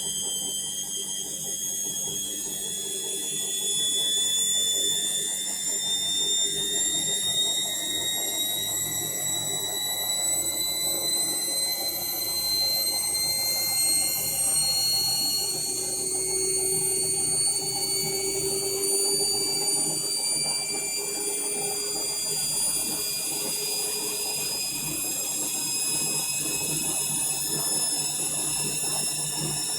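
Indesit My Time washing machine's motor whining as the drum speeds up into the final spin, several high tones rising slowly and steadily in pitch over a low hum.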